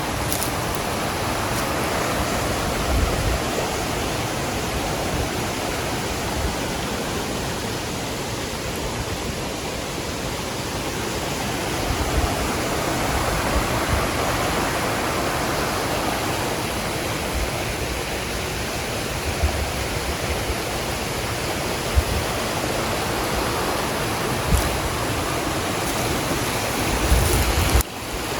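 Steady rushing noise that swells and fades slowly, with a few short low thumps.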